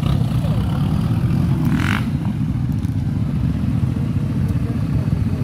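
Engines of 4x4 off-road vehicles, a Toyota Land Cruiser and then a Land Rover Discovery, running at low speed as they drive slowly past one after another, with a steady low rumble. A brief hiss sounds about two seconds in.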